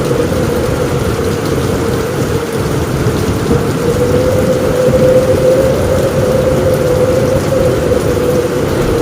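Heavy rain falling steadily on a roof, with a low rumble throughout that swells slightly about five seconds in.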